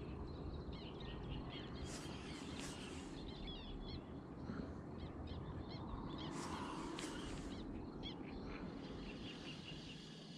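Several birds chirping and calling, short quick notes scattered throughout, over a faint low rumble.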